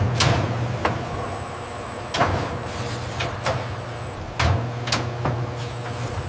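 Industrial machinery running with a steady low hum and a thin high whine, broken by about eight irregular sharp knocks, like metal parts clanking.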